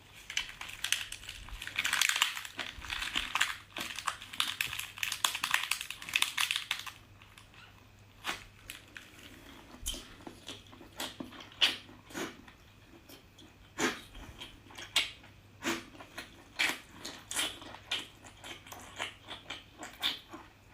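Close-miked eating sounds of a person chewing spicy seafood. There is a dense stretch of eating noise for about the first seven seconds, then scattered mouth clicks and smacks.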